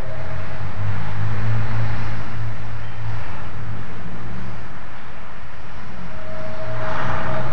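A loud, steady low drone with a held higher tone that fades out and comes back about six seconds in. It is the hum offered as an unexplained sound in the sky.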